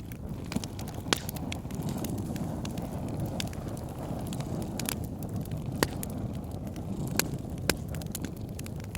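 Wood fire crackling, with irregular sharp pops (the loudest about a second in and near six, seven and eight seconds in) over a steady low rumble.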